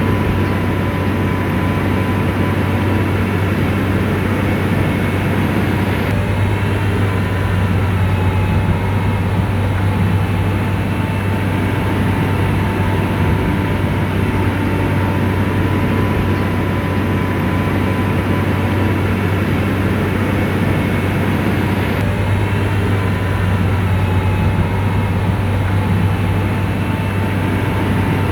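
Diesel engine of an SDLG motor grader running steadily under load, with a deep, constant hum.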